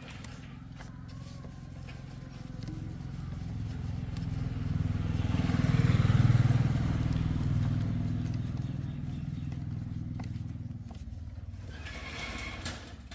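Motorcycle engine running, swelling steadily louder to a peak about six seconds in and then easing back down.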